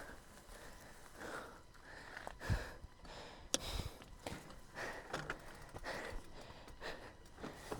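A person breathing hard in irregular puffs, with a few light clicks and knocks, the sharpest about halfway through.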